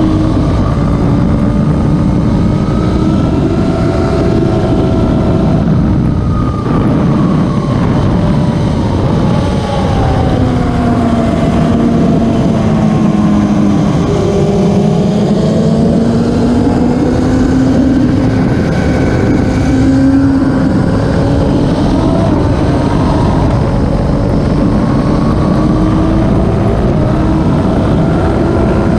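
Racing motorcycle engine running under load, its pitch sinking slowly through the first half and climbing back again, over heavy mechanical and rushing noise.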